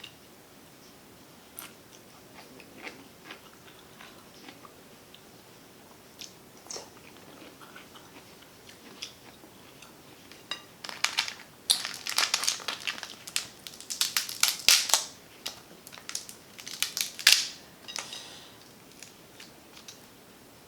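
A person eating shrimp and snow crab close to the microphone, with quiet chewing and small mouth clicks at first. About ten seconds in come several seconds of loud crackling and snapping, the sound of crab shell being cracked open.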